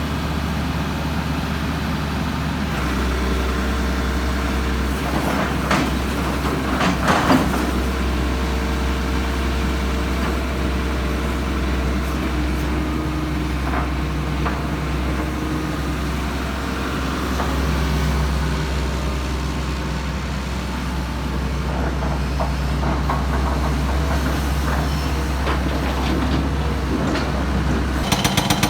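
Heavy diesel construction machinery at an excavation (a large excavator and dump trucks) running steadily with a deep engine drone. A few metallic clanks come about six to seven seconds in. Right at the end a rapid, even hammering starts.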